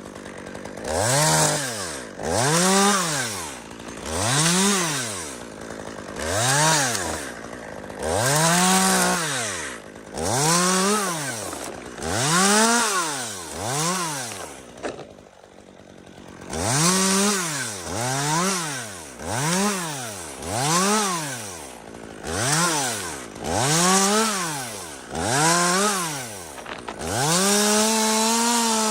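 Chainsaw engine revving up and back down over and over, about once every two seconds. There is a short lull about halfway, and the revs are held high for longer near the end.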